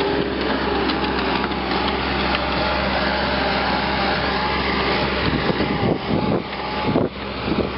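Power wire brush running and scrubbing rust and old paint off a steel tractor wheel rim: a steady motor hum under a harsh scraping noise, which breaks off briefly a few times near the end as the brush lifts or shifts on the rim.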